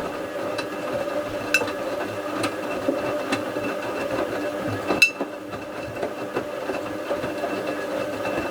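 Bauknecht WA 7778 W front-loading washing machine turning its drum during a wash of towels: a steady motor hum with sharp clicks or knocks about once a second, the loudest about five seconds in. The machine's drum bearing is already starting to fail.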